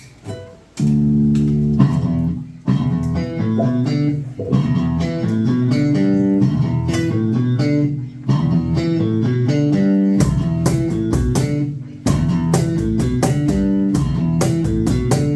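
Live band playing a song's instrumental intro on guitar and bass guitar. The chords start just under a second in, and the playing turns fuller and more rhythmic about ten seconds in.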